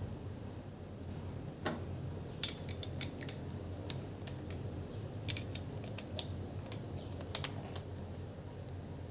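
Small metal objects clinking and ticking against each other: a scattering of sharp clicks, loudest about two and a half seconds in, then more around five and six seconds, over a steady low hum.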